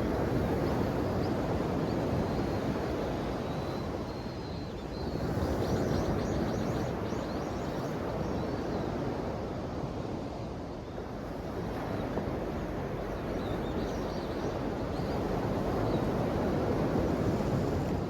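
Ocean waves breaking and washing ashore in a steady rush that swells and fades three times.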